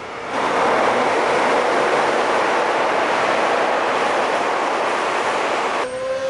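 Train crossing a steel girder railway bridge, heard from beneath the deck: a loud, steady rumble that starts abruptly about a third of a second in and cuts off shortly before the end.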